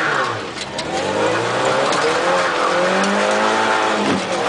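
Peugeot 309 GTi's four-cylinder engine, heard from inside the cabin, revving hard under acceleration. Its pitch dips briefly at the start, climbs steadily for about three seconds, then falls sharply near the end, as at an upshift.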